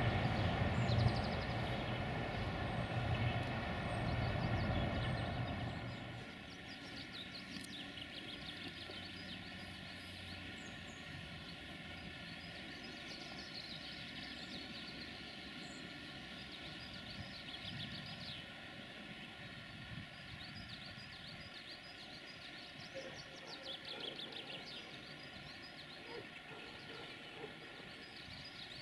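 Train rumble that cuts off sharply about six seconds in. It is followed by quiet outdoor ambience with small birds chirping now and then.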